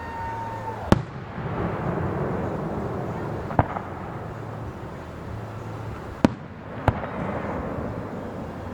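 Aerial fireworks shells bursting: four sharp bangs over a continuous rumble and crackle, with a whistling tone fading out in the first second.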